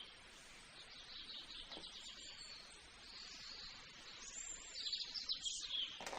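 Birds chirping faintly over a low background hiss, with a brighter run of high chirps and glides about three-quarters of the way through.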